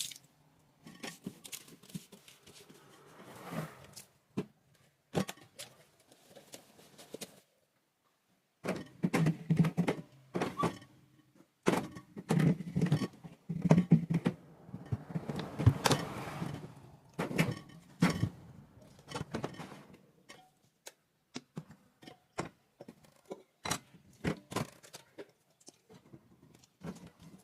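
Irregular knocks, clunks and clicks of items and parts being handled and set down while a refrigerator is cleaned out, with denser stretches of rubbing and clatter in the middle.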